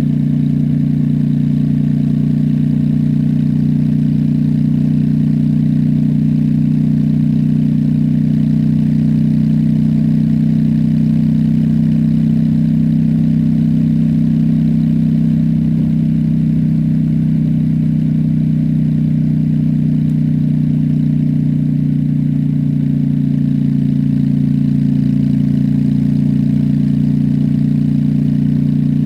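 Honda Shadow's V-twin engine running under way at a steady, unchanging pitch.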